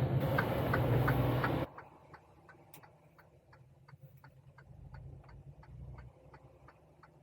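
Truck's turn-signal or hazard flasher clicking steadily, about two and a half ticks a second, over loud cab and engine noise that drops away suddenly a couple of seconds in, leaving the clicks over a faint low hum.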